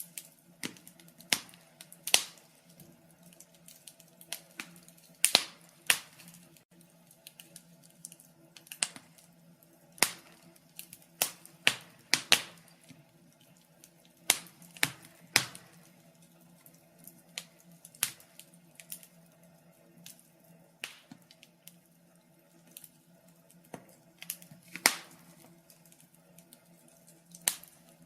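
Wood fire crackling: irregular sharp pops and snaps, roughly one a second with uneven gaps, over a faint steady low hum.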